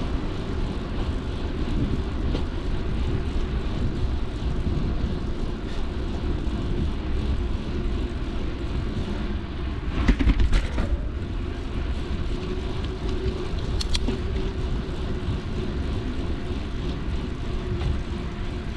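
Mountain bike riding a trail: steady wind rumble on the action camera's microphone with tyre and drivetrain noise, and a short clattering jolt about ten seconds in.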